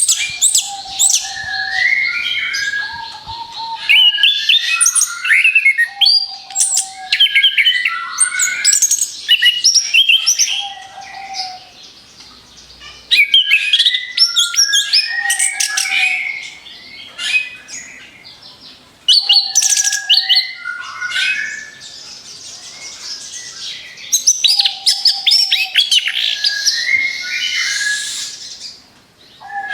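Orange-headed thrush (anis kembang) singing in rapid-fire 'tembakan' volleys. It repeats phrases every two to four seconds, each opening on a low whistled note and followed by a quick run of sharp, high notes.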